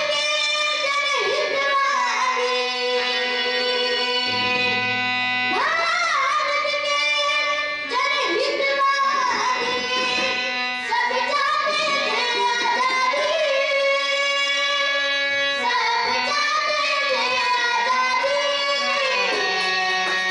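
Marathi devotional bhajan sung by a girls' group, with long held reed notes, typical of a harmonium, under the singing and a light drum accompaniment.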